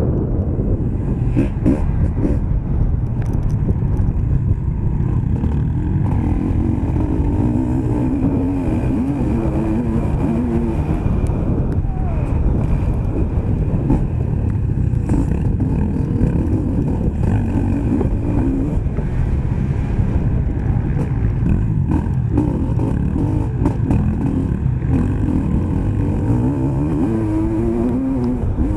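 Motocross bike engine heard on board, running hard, its note rising and falling again and again with the throttle.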